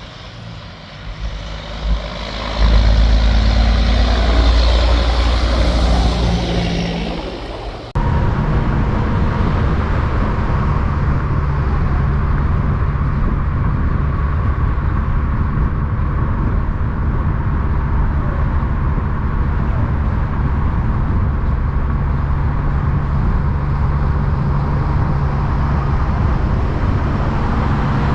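A semi truck's diesel engine goes by loudly, its sound swelling and then fading with a sliding pitch. About eight seconds in, an abrupt cut leads to a diesel truck engine running steadily with a deep, even rumble.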